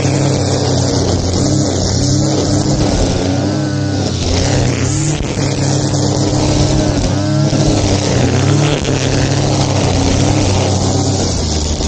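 Small petrol engine of a grass-cutting machine running steadily at working speed, its pitch sagging and picking up again a few times as it cuts.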